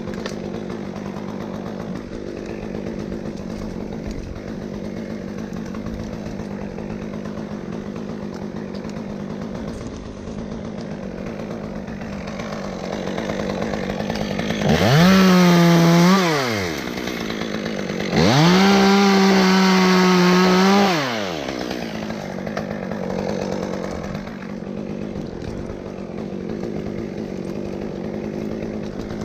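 Two-stroke chainsaw idling, revved up to full throttle twice, about halfway through: once briefly, then for a few seconds, each time rising, holding and dropping back to idle.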